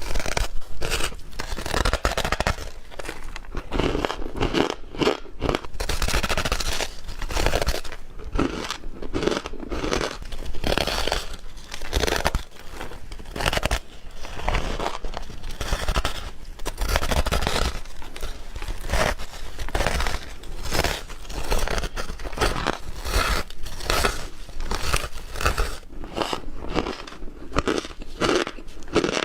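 A person chewing ice close to the microphone: a dense, irregular run of crunches throughout.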